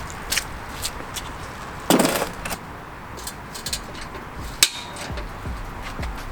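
Scattered metallic clinks and knocks of hand tools working on a car's exhaust, with a short harsh rasp about two seconds in and a sharp knock a little later.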